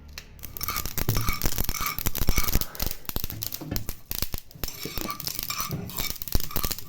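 Rapid clattering and clinking of kitchenware, dishes and utensils being handled, starting about half a second in.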